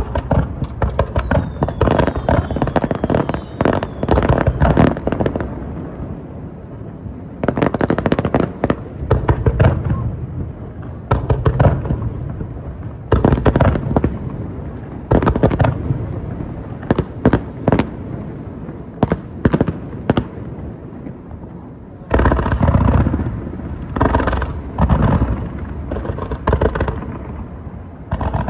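Japanese starmine fireworks display fired over the sea: volleys of aerial shells bursting in quick clusters of sharp bangs, several volleys a few seconds apart, with a low rumble carrying on between them.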